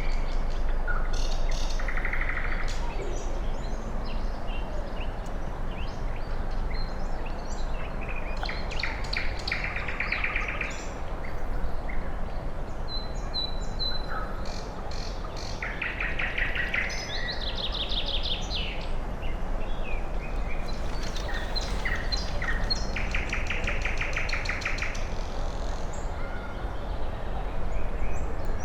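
Several forest birds singing: one bird repeats a rapid trilled phrase every several seconds, while others add scattered short chirps and whistles, over a steady rushing background noise.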